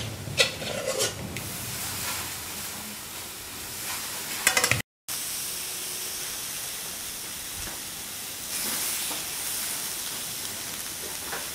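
Food sizzling and frying in a hot pan, a steady hiss with a few sharp clinks of a utensil in the first second and again shortly before the middle. The sound cuts out completely for a moment near the middle.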